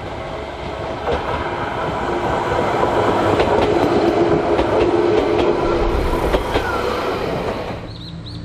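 Electric train passing, with a steady motor whine and wheels clicking over rail joints. It grows louder to a peak a few seconds in, then cuts off suddenly near the end.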